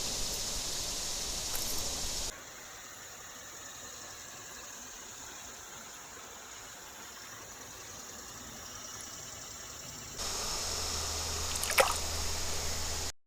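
Creek water trickling and running steadily, dropping to a quieter level after about two seconds and coming back louder near the end. A single short click sounds shortly before the sound cuts off abruptly.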